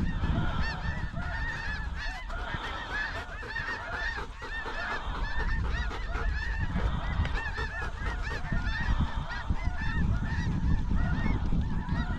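A flock of snow geese calling constantly as they circle low over the decoys: many short, high, overlapping honks with a low wind rumble on the microphone underneath.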